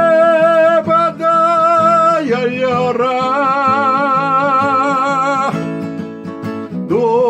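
A singer holds two long notes with vibrato, the second a little lower, over strummed acoustic guitar in a slow gospel praise song. A new sung phrase begins near the end.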